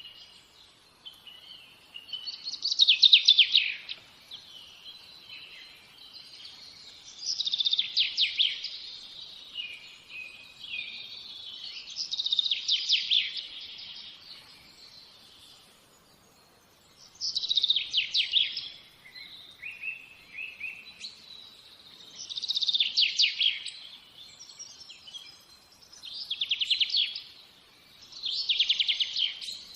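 A songbird singing: a loud, rapid trilled phrase of about a second, repeated every four to five seconds, with quieter chirps and twitters between the phrases.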